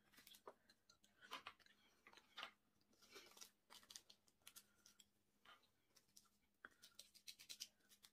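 Faint close-miked eating sounds: a person chewing, with irregular wet mouth clicks and smacks.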